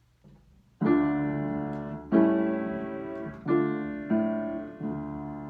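A keyboard instrument playing a slow series of five sustained chords, each struck and left to fade.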